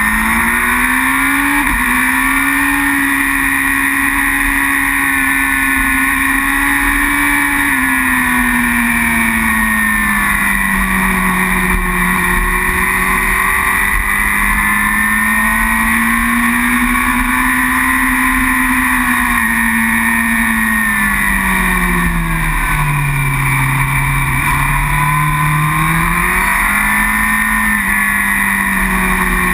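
Superbike engine at racing speed, heard on board: its pitch climbs and falls over several seconds at a time as the rider accelerates and rolls off through corners, dropping lowest a little past the middle.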